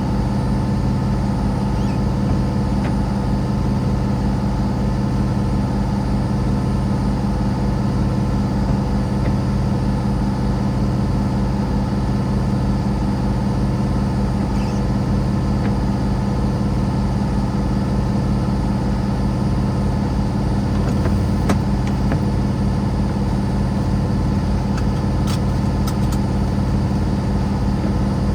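A vehicle's engine runs steadily with an even hum, and a few faint clicks come late on.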